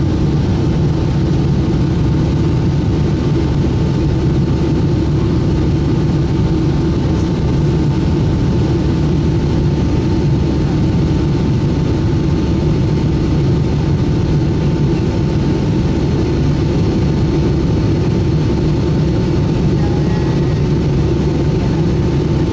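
Steady, unchanging drone of a Boeing 757-200's jet engines and rushing air, heavy in the low end, with a faint constant whine above it.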